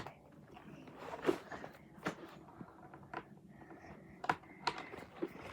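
Scattered light plastic clicks and knocks as side brushes are handled and pressed onto a robot vacuum.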